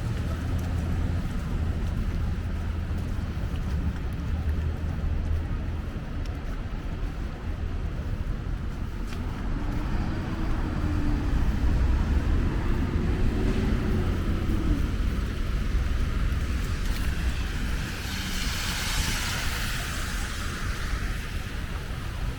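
City street traffic: a steady low rumble of vehicle engines, with an engine's pitch rising and falling around the middle. Near the end, a vehicle's tyres hiss past on the snow-wet street, swelling and fading.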